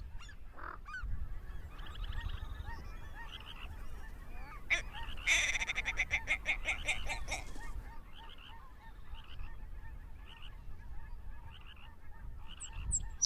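Geese calling with short honks, a dense run of rapid overlapping calls about five seconds in that lasts a couple of seconds, then spaced single short calls.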